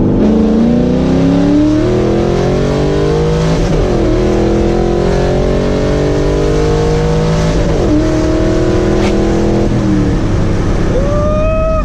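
Muffler-delete car exhaust at wide-open throttle, very loud: the engine pitch climbs steadily, drops back twice at about 4 and 8 seconds in as the car shifts up, then falls away near the end as the throttle is lifted.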